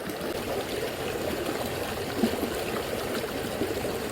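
Shallow, fast-flowing river current running steadily.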